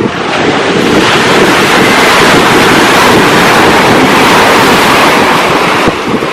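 Sea surf washing in, with wind buffeting the microphone; the rush of water swells about a second in and eases off near the end.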